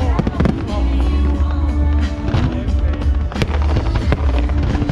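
Fireworks going off in several sharp bangs over loud music with a heavy bass line.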